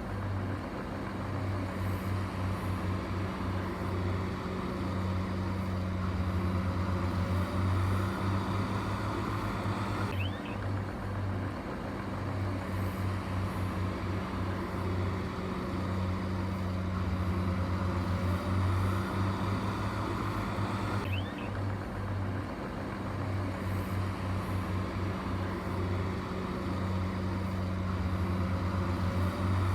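Heavy machinery engine running steadily with a low drone, the same pattern of sound repeating about every 11 seconds.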